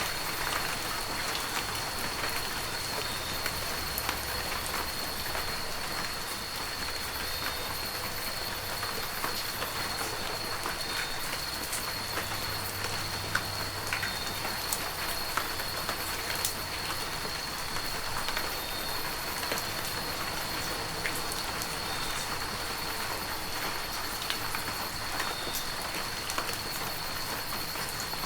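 Heavy rain falling steadily, a dense hiss with many individual drops ticking sharply on surfaces. A thin, steady high whine runs underneath it.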